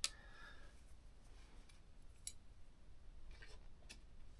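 A few faint, scattered clicks and taps of tweezers and small parts being handled at a laptop's fan cable connector, just after it has been unplugged.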